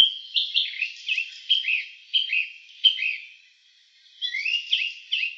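A songbird singing: a run of short, clear chirping notes, two or three a second, with a brief pause about halfway and a busier run of notes near the end.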